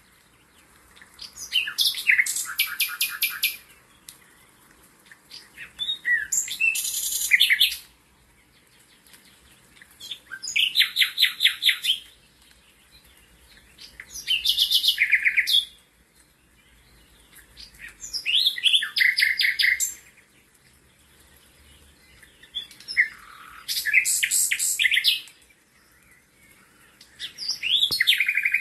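A songbird singing the same short phrase over and over, about every four seconds: each high-pitched phrase is a quick run of rapidly repeated trilled notes lasting under two seconds.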